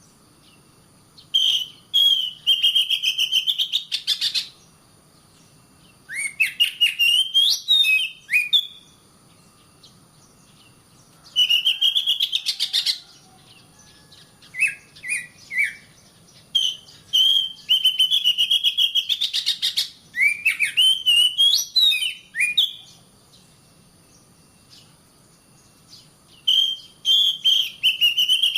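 Oriental magpie-robin (kacer) singing in repeated bouts of loud whistled phrases, each run into a fast scratchy rattle, with pauses of a few seconds between bouts.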